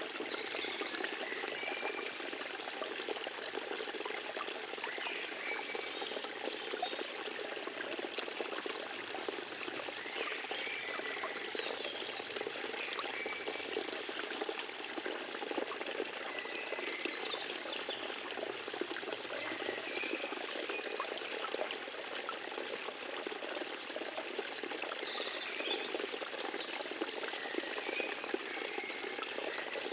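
Forest stream water trickling and pouring steadily over stones, with a few faint short chirps scattered throughout.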